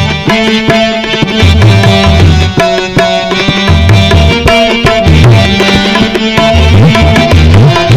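Instrumental break in a Maithili devotional song: a quick tabla rhythm whose bass drum strokes bend upward in pitch, under a melody line of held instrumental tones.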